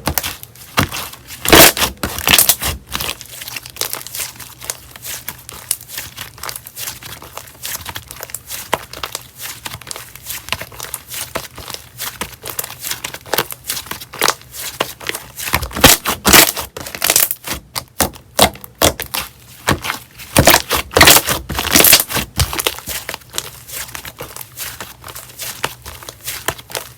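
Slime being squished and worked by hand: dense crackling with sharp popping clicks throughout. Louder runs of pops come about two seconds in, around sixteen seconds and again around twenty to twenty-two seconds.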